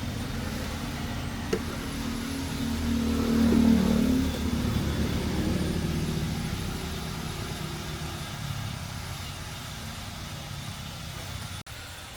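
Truck engine running. It swells to its loudest about three to four seconds in, then fades steadily away.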